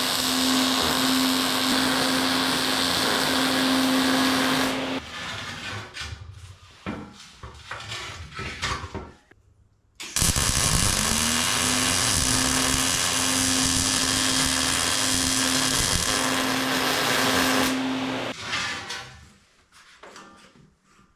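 Angle grinder run twice on steel: each time the motor spins up to a steady whine with a harsh grinding hiss, first for about five seconds and then, after a short pause, for about eight, before winding down with some rattling.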